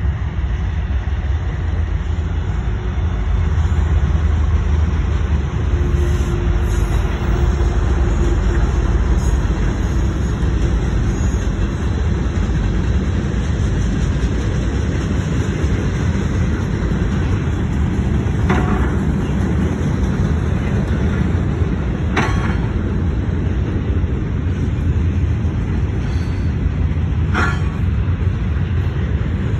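Diesel freight train rolling past: a steady low rumble of steel wheels on rail, with three sharp metallic clanks in the last third.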